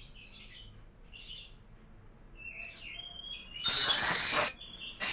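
Small birds chirping in the background, short rising and falling chirps, broken by two loud rasping hiss-like noise bursts, one about three and a half seconds in lasting nearly a second and another at the very end.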